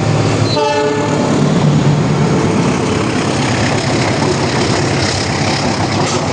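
A passenger train hauled by a CC206 diesel-electric locomotive passes close by. There is a brief horn blast about half a second in, then a loud, steady rush and rumble from the passing train.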